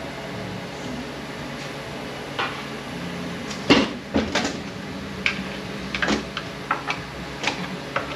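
Metal transmission parts being handled during a teardown: irregular clinks and knocks of metal on metal, the loudest about four seconds in, over a steady low hum.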